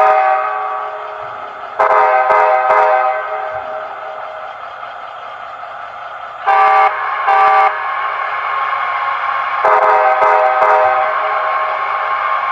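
Nathan K5LA air horn sample played through the small speaker of a Bachmann HO scale Charger model locomotive: a chordal horn sounding in several blasts, one ending about a second in, another about two seconds in, two short toots in the middle and a longer one near the end, over the model's steady diesel engine sound.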